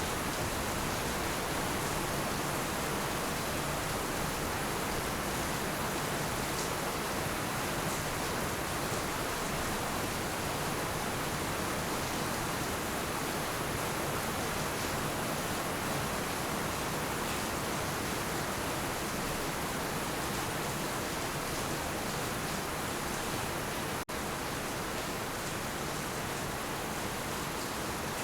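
Heavy rain falling steadily, an even hiss with no thunder. The sound cuts out for a split second near the end, then carries on unchanged.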